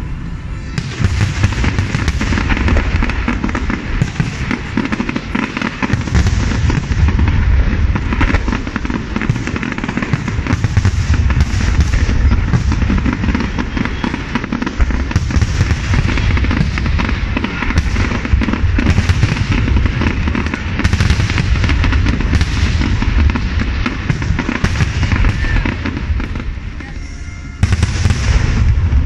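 Fireworks barrage: many aerial shells bursting close together, dense crackling over repeated deep booms. It thins briefly near the end, then a loud burst starts it up again.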